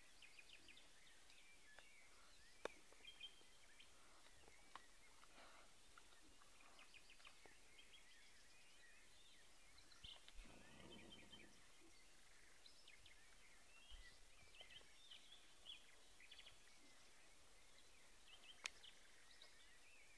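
Faint, scattered chirps of small birds over quiet background noise, with a few sharp clicks and a brief rustle about halfway through.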